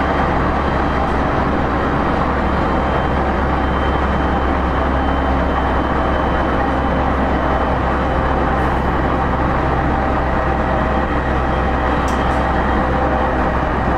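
JR East E231-0 series commuter train running at speed between stations, heard from inside a motor car. Steady wheel-and-rail noise is layered with the traction motors' steady whine, one tone of which rises slightly near the end.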